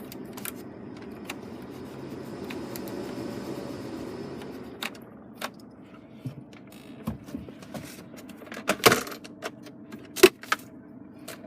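Clicks and knocks of a Nissan Navara's cabin controls and fittings being handled, over a steady low cabin hum with the 2.5 dCi turbo diesel running. The hum swells briefly a couple of seconds in, and two louder clicks come near the end.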